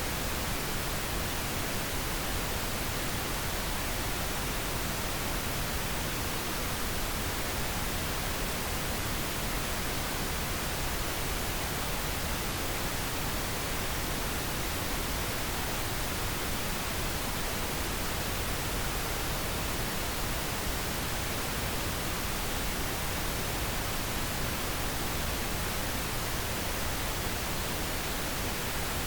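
Steady pink noise, an even hiss with no change in level or texture.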